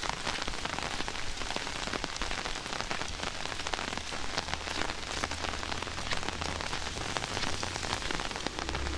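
Heavy rain falling: a dense, steady hiss dotted with many sharp individual drop hits.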